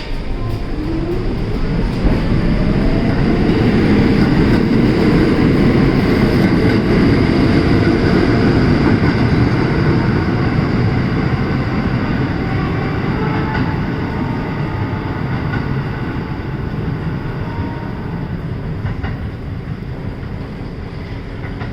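R46 subway train running on the rails, a loud rumble and wheel clatter that swells about two seconds in and then slowly fades. A rising motor whine comes with the swell.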